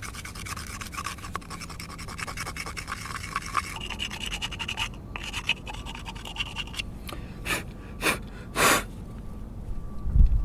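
Dense, rapid rasping and scraping strokes of something rubbed by hand against a rough surface, easing off after a few seconds. Three short swishes follow, then a low thump near the end.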